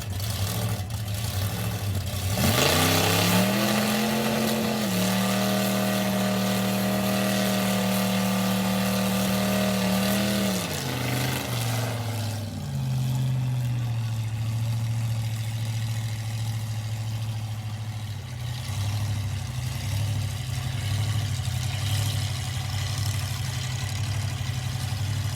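A vintage drag car's engine idling, then revved up about two seconds in and held at a steady high rpm for about eight seconds. It then drops back to idle, which turns lumpy near the end.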